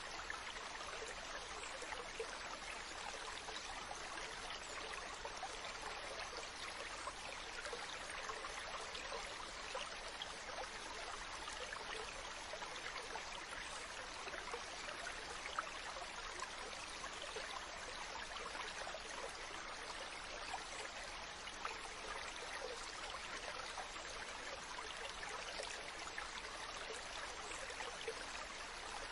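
Mountain stream running over rocks: a steady rushing and babbling of water with small splashes.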